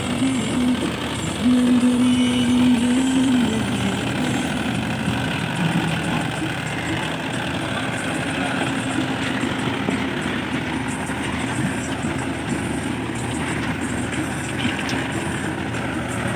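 Mahindra Yuvo 575 DI tractor's 45 hp diesel engine running steadily while it pulls a cultivator through a field.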